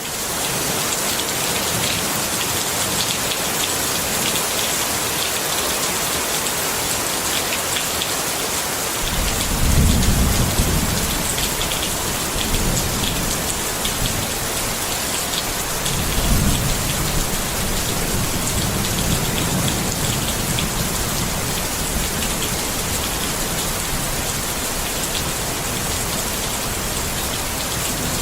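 Steady rain falling on a tent, with a constant hiss and scattered small drop ticks. Thunder rumbles low, starting about nine seconds in and again around sixteen and nineteen seconds.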